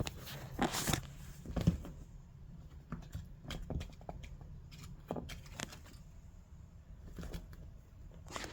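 Light scattered taps and knocks of a kitten playing with toys on the floor, the loudest cluster about a second in, over a low steady hum.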